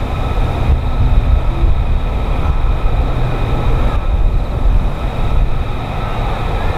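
Jet aircraft engine running steadily: a heavy low rumble with a steady high-pitched whine above it.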